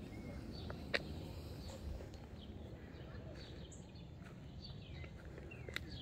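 Small birds chirping sporadically with short high calls over a low outdoor background hum, with one sharp click about a second in.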